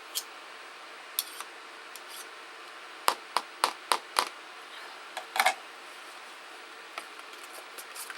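A utensil clicking and knocking against a mixing bowl while a thick mixture of mayonnaise, sour cream and canned cream of chicken soup is stirred together. There are scattered sharp clicks, with a quick run of about five knocks around the middle.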